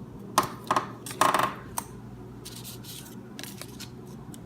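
Small hard objects clicking and clattering: a few sharp clicks, a brief ringing metallic rattle a little over a second in, then soft rustling.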